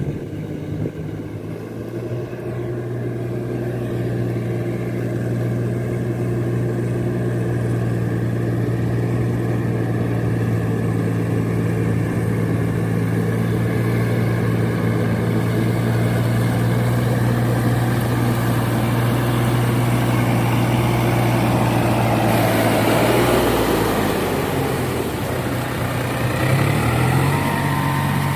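Four-wheel paddy-field tractor engine running steadily under load; its pitch dips and wavers about three-quarters of the way through, then settles slightly higher near the end.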